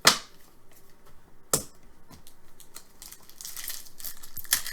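Two sharp clicks of trading cards being handled, then crinkling and tearing of a foil card pack wrapper from about three seconds in.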